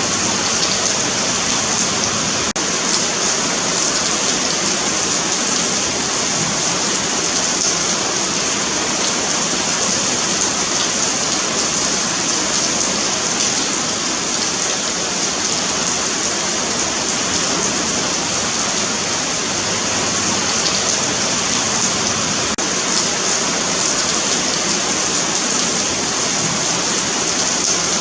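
Steady rain falling on a pavement, an even continuous hiss with fine spatter of drops.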